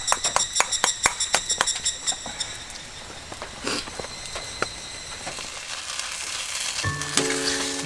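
Rapid metallic clinks, about five a second, of a metal utensil knocking against a metal pan, each with a high ring; they stop after about two seconds, leaving a soft crackle and patter. Music starts near the end.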